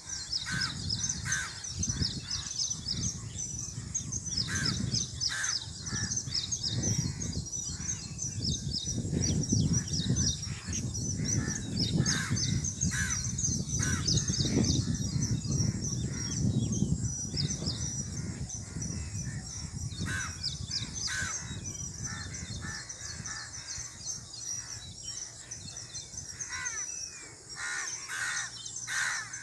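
Birds calling outdoors: a dense, rapid high twittering with many separate louder calls over it, and a low rumble underneath that fades in the last third.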